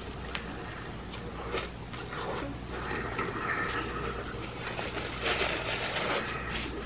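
Close-up chewing and wet mouth sounds of a man eating a burger, with small smacks and clicks, busiest and loudest a little past halfway. Near the end a paper napkin rustles against his mouth. A steady low hum runs underneath.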